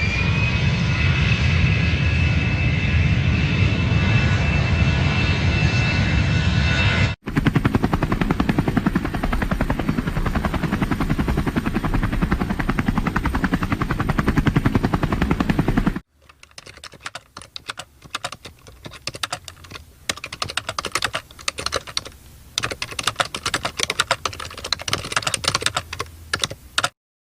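Three recorded sound effects played back to back with abrupt cuts between them: first a heavy mechanical drone with a whine that rises and then holds steady, then a dense rapid rattling, then a quieter run of irregular clicks.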